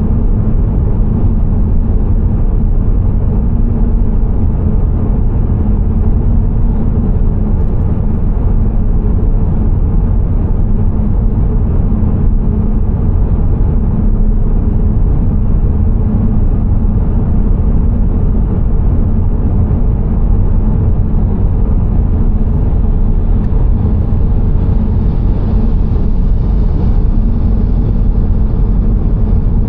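Car driving: a loud, steady low rumble of road and engine noise that does not change.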